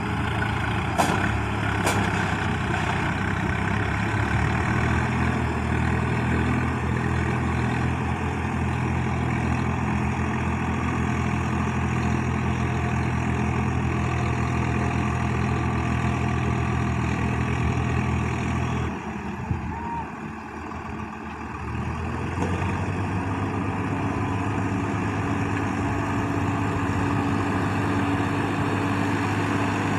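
Tractor diesel engine running steadily. About twenty seconds in it drops off for a couple of seconds, then picks up again at a slightly different pitch.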